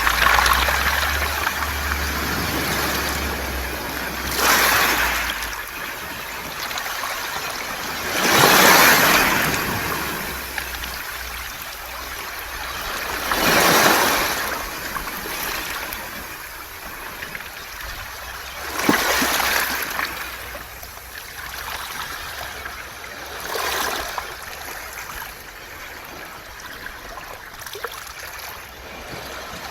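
Waves washing up and draining back over a beach of smooth round pebbles, a surge about every five seconds with the pebbles rattling and hissing as the water runs through them.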